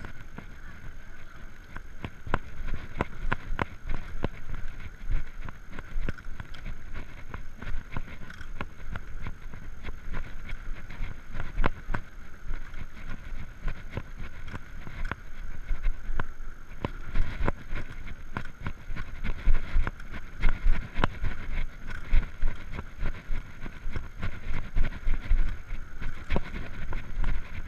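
Electric bicycle being ridden uphill on a road: a steady low rumble with frequent sharp clicks and knocks of the bike rattling over the road surface.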